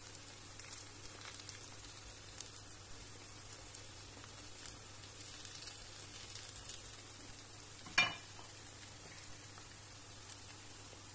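Potato and carrot fritters sizzling softly in oil in a frying pan, with small scattered crackles and one sharp tap about eight seconds in.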